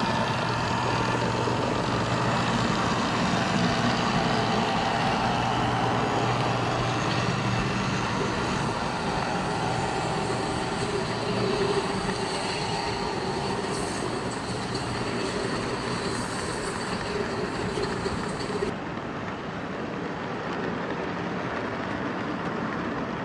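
Freight train rolling past: a steady rumble and clatter of cars on the rails, whose top end drops away suddenly about 19 seconds in.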